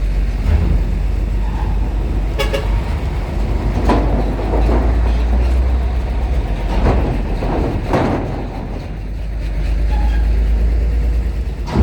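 Heavy vehicles running with a steady low engine rumble, with a short horn toot about two and a half seconds in and a few more swells of engine or ramp noise after it.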